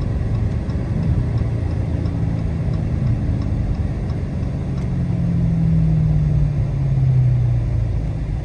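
Supercharged 6.2-litre HEMI V8 of a Dodge Charger Hellcat with its mid mufflers deleted, running under way; the engine note climbs a little, holds, then drops back near the end.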